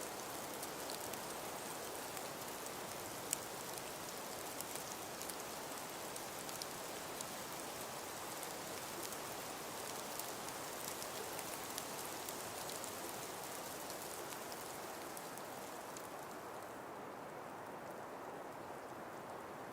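Steady hiss of wind and falling snow, sprinkled with fine, light pattering ticks. About seventeen seconds in, the higher hiss and the ticks fade back, leaving a softer, duller rush.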